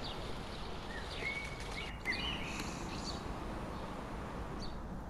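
Outdoor ambience: a few short bird chirps, most of them between one and three seconds in, over a steady low background noise.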